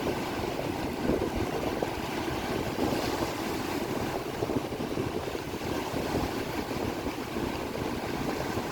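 Steady rain falling, an even rushing patter.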